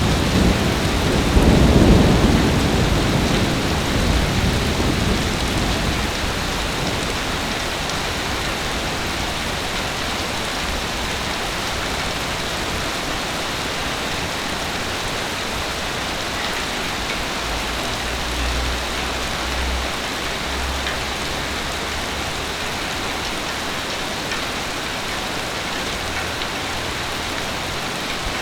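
Heavy rain falling steadily, with a roll of thunder in the first few seconds and a fainter low rumble of thunder later on.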